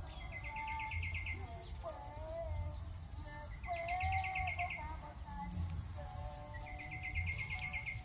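Several wild birds calling: a short, rapid trill of about ten notes, given three times a few seconds apart, over scattered whistled notes and a high chirping that repeats evenly throughout.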